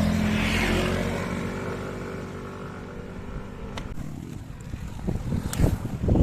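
A motor vehicle engine passing on the road and fading away over the first few seconds. Wind buffets the microphone near the end.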